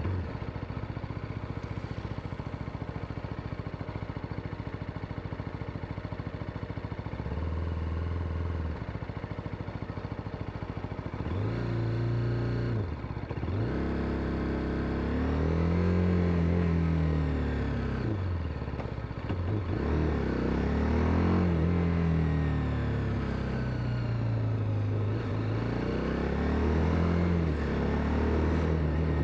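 BMW S1000RR inline-four engine running through an Arrow aftermarket exhaust. It idles steadily for several seconds, then from about a third of the way in it is revved again and again, the pitch rising and falling with each rev.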